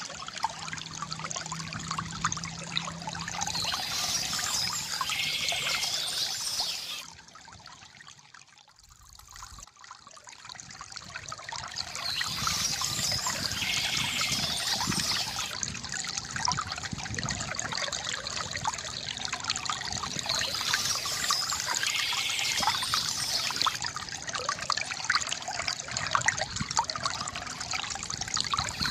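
A small stream trickling and pouring steadily. High-pitched bird calls come in at intervals. About seven seconds in, the water sound fades down sharply for a couple of seconds, then swells back.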